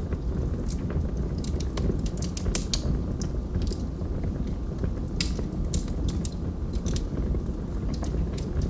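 Logs burning in a fireplace, crackling with many sharp, irregular pops and snaps over a steady low rumble of the flames.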